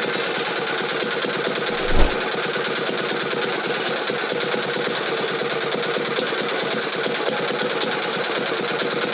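A machine's engine or motor running steadily with a fast rattle, with one low thump about two seconds in.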